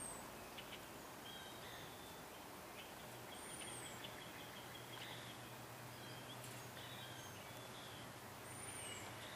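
Faint birdsong outdoors: a short, high call that rises and falls, heard twice about five seconds apart, with fainter chirps between, over a faint steady low hum.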